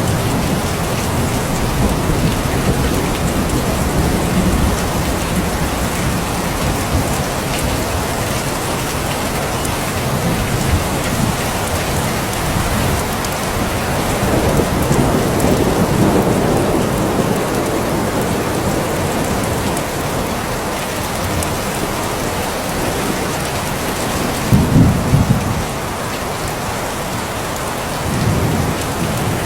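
Steady heavy rain falling, with low rolls of thunder rumbling under it; the loudest rumble comes briefly about three-quarters of the way through.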